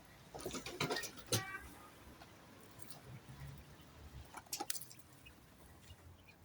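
Faint clicks and rustling from handling in a quail cage while eggs are gathered, with one brief squeak about a second and a half in.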